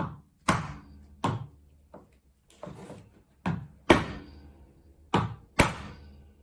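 Metal espresso portafilter knocked and clunked about nine times at irregular intervals, each knock sharp with a short ring, as the spent coffee grounds are knocked out.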